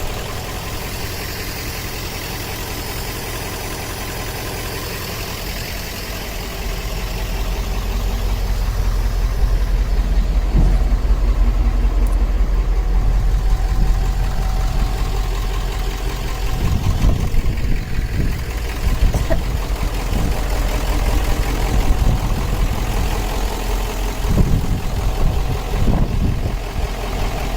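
1996 Ford E350's 7.3-litre Powerstroke turbo-diesel V8 idling steadily, freshly started after weeks of refusing to start, now running on new batteries. It gets louder about a third of the way in, and a few low thumps come in the second half.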